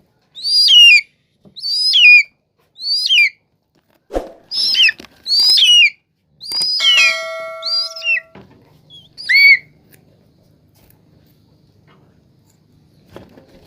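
Eagle chick calling: a series of about eight loud, high, shrill calls, each sliding downward in pitch, the begging calls of a chick being fed meat. A steady tone sounds beneath them for under two seconds about seven seconds in, and the calls stop about ten seconds in.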